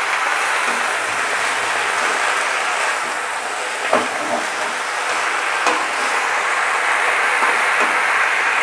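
Chopped spinach sizzling steadily as it fries in a metal wok, stirred with a spatula, with two sharp knocks of the spatula on the pan about four and six seconds in.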